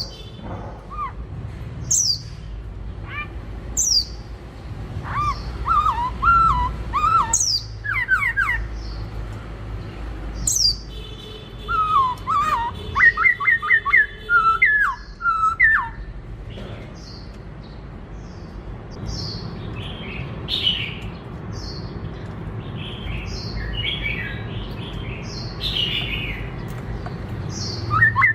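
Black-throated laughingthrush singing: sharp high down-slurred notes every couple of seconds, between loud warbling phrases, then a long varied run of short high notes in the second half.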